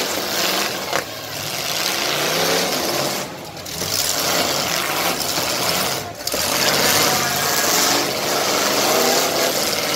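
Demolition derby car and truck engines revving hard under load, easing off briefly twice before climbing again.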